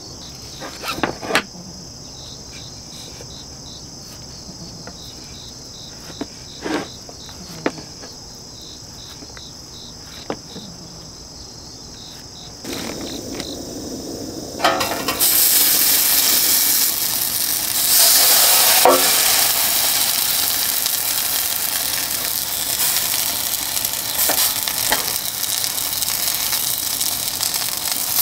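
Bread cubes coated in butter and sugar sizzling in a hot stainless steel mess tin, starting about halfway through and much louder than what came before. Before that, crickets chirp steadily, with a few short rustles and clicks.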